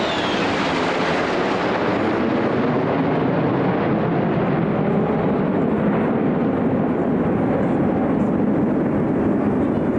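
Aircraft of a flypast passing overhead: a loud, steady rush of jet engine noise whose higher part slowly fades as they move away.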